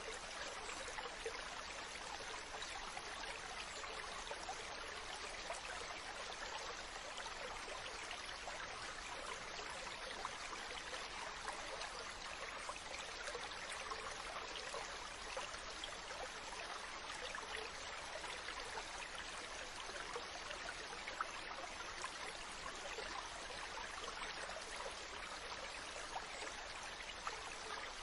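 Mountain stream running over rocks: a steady rush of water, with small splashes and trickles flickering through it.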